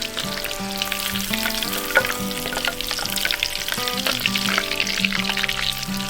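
Breaded shrimp deep-frying in hot oil: a steady sizzle with dense crackling and spitting. Background music with sustained notes plays under it.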